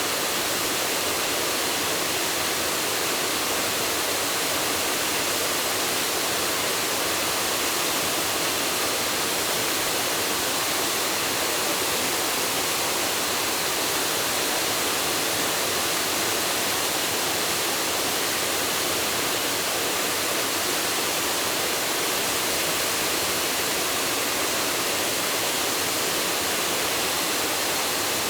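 Waterfall: falling water making a loud, even hiss with no rise and fall.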